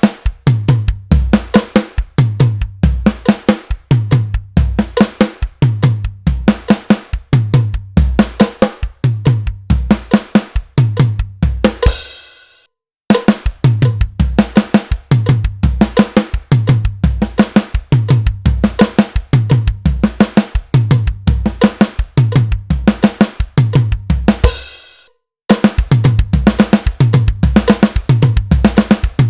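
Acoustic drum kit playing a beat into a punk rock fill built from groupings of right hand, left hand, kick, played three times and closed with a right-left on the snare. The take runs three times, two of them ending on a ringing cymbal that cuts off suddenly.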